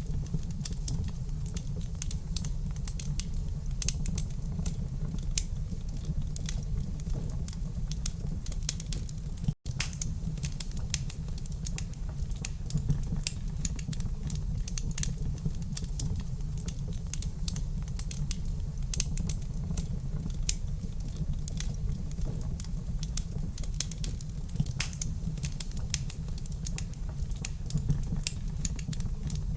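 Wood fire in a fireplace crackling: dense, irregular pops and snaps over a steady low rumble of the flames. About a third of the way in there is a split-second gap of silence.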